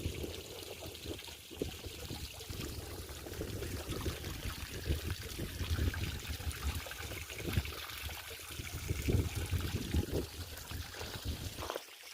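Water trickling and pouring steadily into a container or pond, with uneven low rumbling underneath; it cuts off suddenly near the end.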